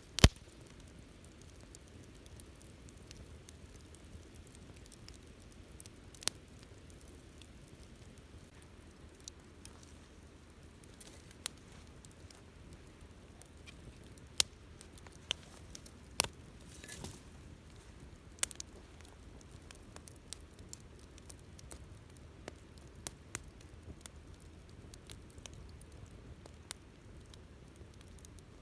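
Wood campfire burning: sparse sharp crackles and pops over a low steady hiss, the loudest pop right at the start, and a brief hissing spurt about 17 seconds in.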